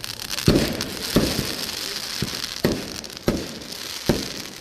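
Fireworks going off: about six sharp bangs a half-second to a second apart, over a steady crackling fizz.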